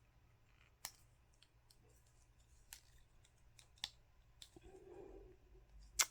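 Scattered sharp plastic clicks and snaps as a small plastic sun-visor clip is handled and pressed back together, about five separate clicks with the loudest near the end.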